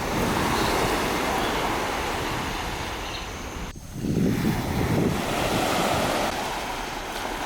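Ocean surf washing in on the shore, with wind on the microphone. A sudden brief break comes about halfway, then a second wave surges in.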